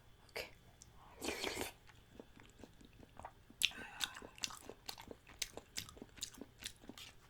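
Close-miked mouth sounds of eating: a brief noisy sound about a second in, then wet, smacking open-mouthed chewing, several clicks a second.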